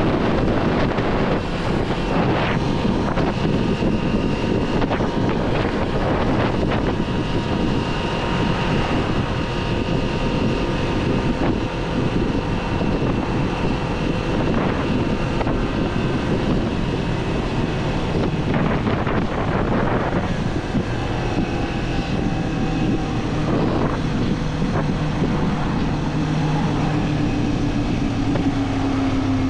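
Kawasaki 400 naked bike's parallel-twin engine running at road speed, with heavy wind noise on the microphone. Near the end the engine note falls a little.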